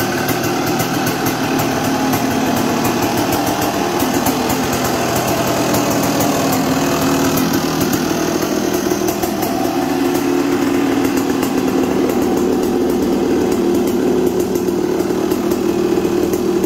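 Yamaha YZ250 two-stroke engine, fitted in a YFZ450 quad frame, running steadily on a test run.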